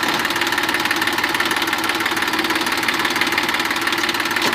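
Massey Ferguson 241 DI tractor's 41 hp diesel engine running steadily with a clattering diesel knock.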